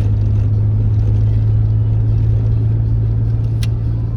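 Vehicle on the move, a steady low engine and road drone, with one short sharp click about three and a half seconds in.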